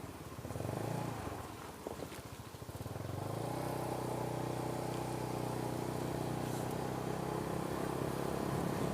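Motorcycle engine running, a low rapid chugging for the first few seconds, then about three seconds in it picks up to a steady, even hum as the bike runs at constant speed.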